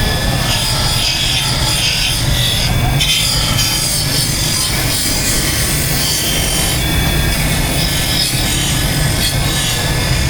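Motor-driven buffing wheel running steadily and rubbing against a motorcycle engine's metal casing while it is polished to a mirror finish.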